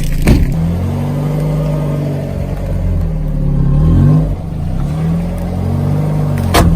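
Car engine revving up and down several times. There is a sharp crack just after the start and a quick run of cracks near the end.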